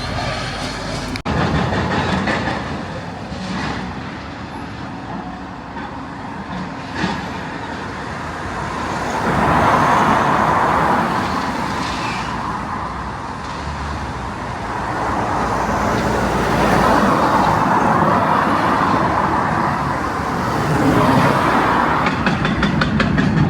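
Heavy engine noise, running steadily and swelling then fading three times, like vehicles or machines passing or working harder.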